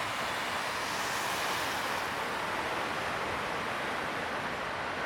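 Steady rushing noise of ocean surf breaking, with no distinct individual crashes.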